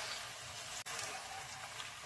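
Wide Chinese glass noodles sizzling in a hot frying pan as they are stirred and tossed, a steady frying hiss with a brief break just under a second in.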